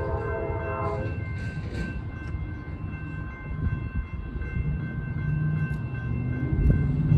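Train horn sounding and cutting off about a second in, then the low rumble of an approaching train growing louder toward the end.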